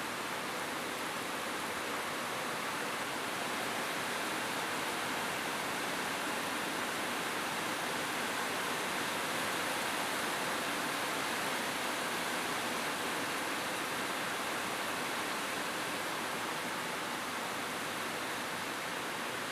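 Rain falling steadily on a roof, an even hiss with no thunder.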